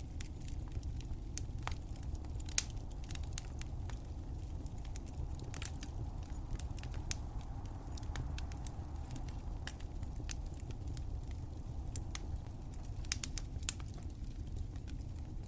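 Wood fire crackling in a fireplace: irregular sharp pops and snaps scattered over a steady low rumble of the burning fire.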